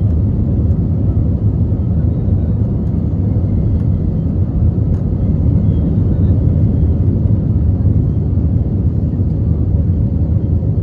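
Steady low rumble of an Airbus A320 airliner heard from inside the passenger cabin: engine and airflow noise while the aircraft is moving, with a faint high whine above it.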